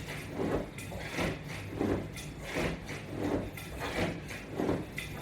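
A person doing sit-up crunches, with their feet held by straps, in a steady rhythm. There is a short, soft sound about every three-quarters of a second, over a low steady hum.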